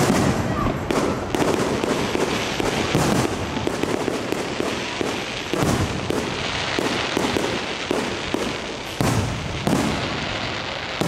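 Aerial fireworks bursting in quick succession, many overlapping bangs and crackles with no let-up.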